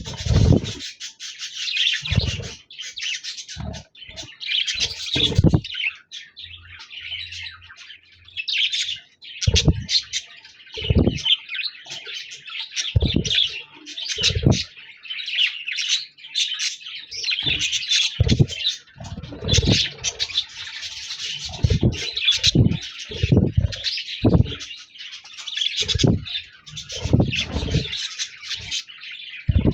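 Budgerigars warbling and chattering without a break, a dense twittering song, with frequent short low thuds mixed in.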